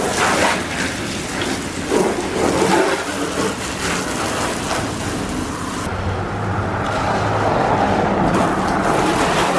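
Garden hose spraying water onto a car: a steady rushing hiss with a few louder surges in the first few seconds.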